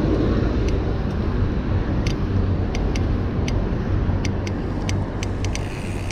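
Wind rumbling over the microphone of a bike-mounted camera while riding, with about a dozen sharp, irregularly spaced clicks.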